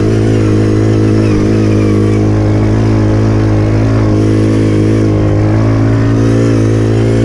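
Pit bike engine running hard at a nearly steady pitch, wavering slightly, as the bike climbs a hill.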